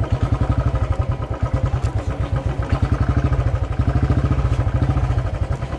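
Motorcycle engine running steadily under way, heard from the rider's seat, with an even beat of about ten pulses a second.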